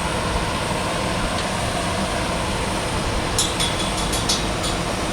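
Heavy vehicle engine running steadily, with a few light clicks and ticks about three and a half to four and a half seconds in.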